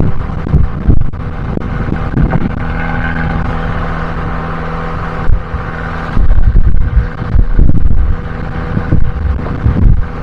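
Abarth 595C's turbocharged 1.4-litre four-cylinder running through an Akrapovič exhaust on the move. It holds a steady engine tone for a few seconds, then gives way to heavy, uneven low rumbling and buffeting from about six seconds in.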